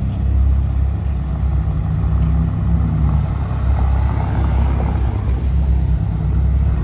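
Car engine idling with a steady, deep low rumble.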